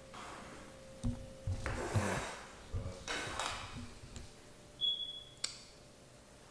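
Kitchen handling sounds around a frying pan: a few knocks and short scrapes, then a brief high tone and a sharp click about five seconds in.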